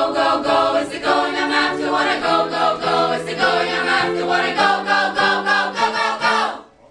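Choir singing in harmony on short, rhythmic repeated syllables over sustained low notes, ending together on a final chord that stops sharply near the end.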